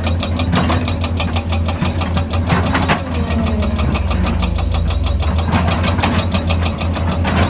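Heavy excavator's diesel engine running steadily with a rapid, even pulsing beat, and a fainter tone that glides up and down in pitch now and then as the machine works.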